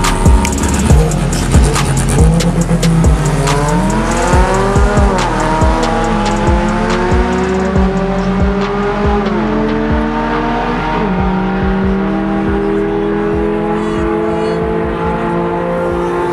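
A race car engine accelerating hard, its pitch climbing and then dropping at gear changes about five, nine and eleven seconds in, then holding steady. Music with a drum beat plays under it early on.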